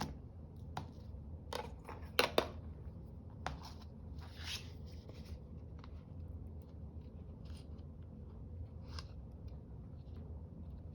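Paper craft materials being handled at a work table: a few sharp clicks and snips in the first few seconds, then sparse, soft paper rustles.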